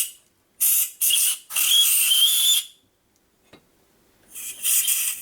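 Short bursts of pressurized spray hissing, some with a faint whistle in them: three in quick succession, the last about a second long, then after a pause of about two seconds two more.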